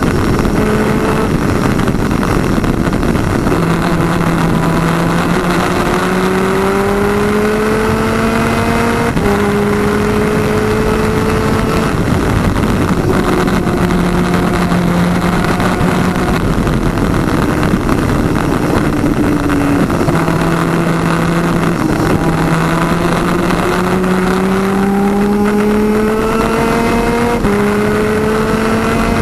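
Twin-engine 250cc two-stroke superkart running hard, heard from on board. The engine note climbs steadily, then drops in a step every few seconds as the gears change, over heavy wind and road noise.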